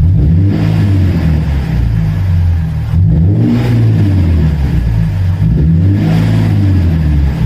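Lexus IS 250's 2.5-litre V6 exhaust after a muffler delete, with the resonator kept, idling and revved up and back down a few times.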